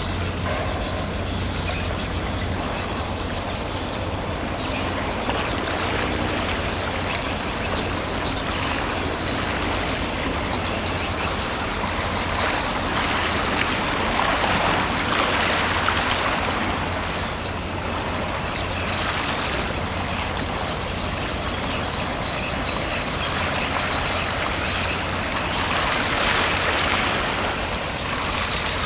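Container ship passing on a river: a steady low engine hum under rushing water from its wake, which swells twice.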